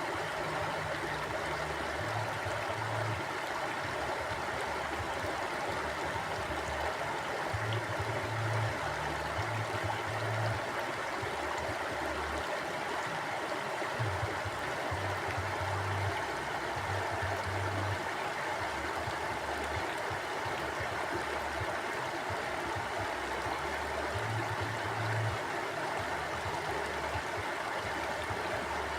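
Mountain stream flowing with a steady rush of water. Underneath runs a low hum that shifts between pitches in steps every second or so.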